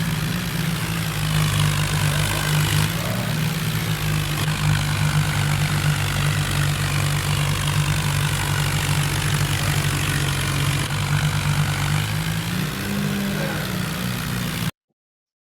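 John Deere tractor's diesel engine running steadily, with a slight rise in engine speed near the end before it cuts off suddenly.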